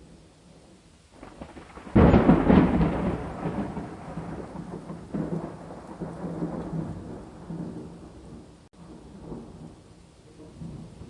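A thunderclap cracks suddenly about two seconds in, then rolls on as a rumble that swells again several times as it dies away, over steady rain. The sound cuts out for a split second late in the rumble.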